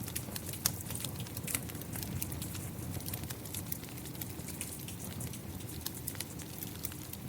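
Steady rain falling together with a crackling wood fire: a constant low rumble under many small, irregular pops and crackles, with a couple of sharper pops about a second in.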